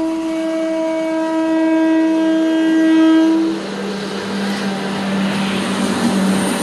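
A train's horn sounding one long steady note that stops about three seconds in, followed by the loud running noise of the train passing on the track.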